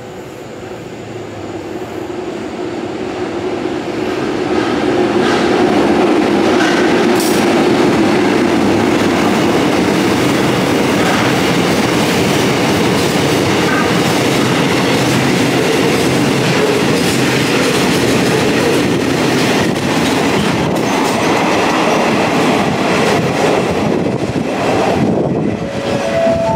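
Freight train of cement tank wagons rolling through the station, growing louder over the first few seconds as it arrives, then a steady rumble and clatter of steel wheels on the rails as the wagons pass.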